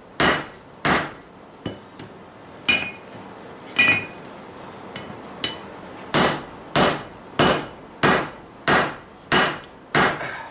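Hammer blows on hot axle steel drawing out a taper on a cast-iron Vulcan 90-pound anvil. Sharp strikes come in a steady rhythm of about one every half-second to second, some lighter, with a short break near the middle; a few blows leave a brief ring.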